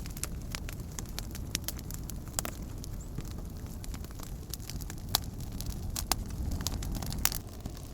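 Wood campfire crackling: scattered sharp pops and snaps, a few louder ones in the second half, over a steady low rumble.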